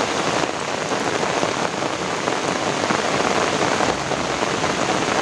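Steady rain falling on an asphalt road and the leafy vegetation beside it, a dense, even patter.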